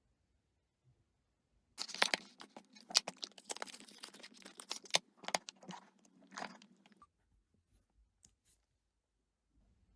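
A dense run of crunching, crackling noises, lasting about five seconds from about two seconds in, then stopping.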